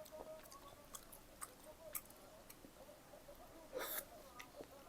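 Close-miked chewing, with soft wet mouth clicks scattered throughout and a short breathy rush about four seconds in.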